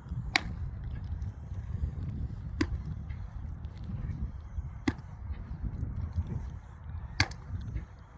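Sharp knocks, four of them evenly spaced about every two and a quarter seconds, over a steady low rumble.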